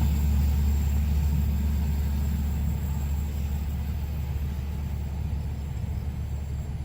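Deep, steady rumble of a heavy vehicle, slowly fading.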